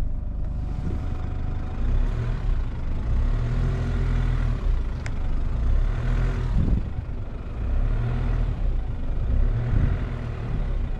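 Jeep engine running under load in four-wheel drive, towing on a rope tied to a tree, its note rising and falling. A single sharp click about five seconds in.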